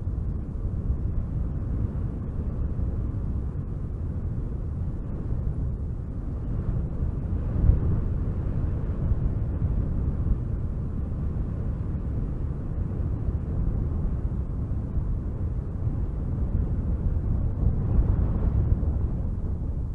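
Wind blowing in gusts, a low rushing rumble that swells about eight seconds in and again near the end.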